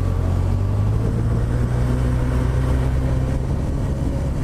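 Honda CB1000R's inline-four engine running at steady revs, a constant low hum.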